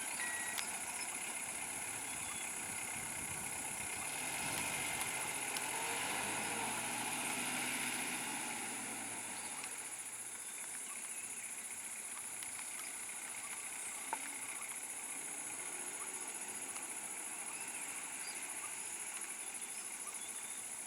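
A motor vehicle's engine passing: it swells and bends up then down in pitch between about four and nine seconds in, then fades back into a steady outdoor background.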